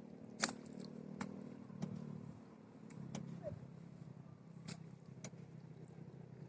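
A hand tractor's engine running steadily at a moderate distance, with several sharp clicks or knocks scattered over it.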